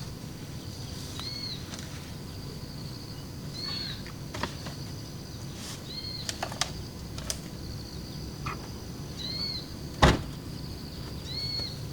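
Night outdoor ambience: a steady high drone of insects under a low, even background noise, with a short chirping call repeated about every two to three seconds. A few sharp knocks cut in, the loudest about ten seconds in.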